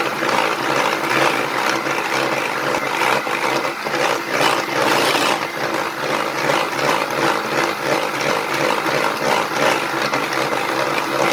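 Electric mixer running steadily, whipping plain fromage blanc together with whipped cream and sugar for a short while.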